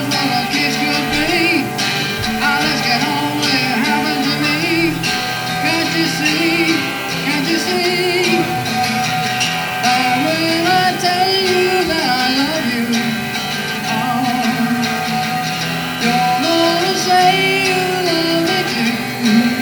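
Live acoustic guitar music: a song played with strummed guitar and a melody line that bends in pitch.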